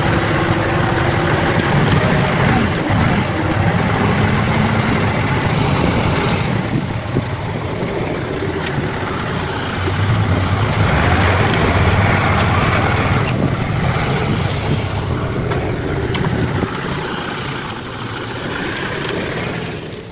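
Bulldozer's diesel engine running under changing load, its level and pitch rising and easing as it works, softening somewhat near the end.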